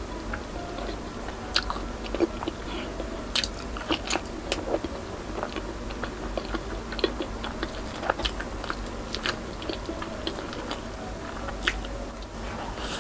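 Close-up sound of a person biting and chewing fried tilapia with her mouth closed: irregular crunches and wet mouth clicks throughout, over a low steady hum.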